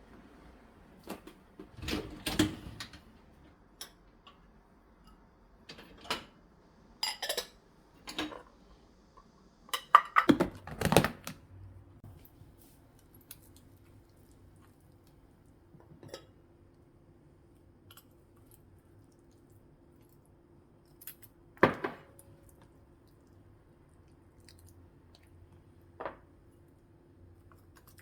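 Dishes and cutlery clinking and clattering as food is prepared, in scattered knocks that are busiest in the first half. About ten seconds in, a faint steady hum of a kitchen appliance starts and keeps going under the later clinks.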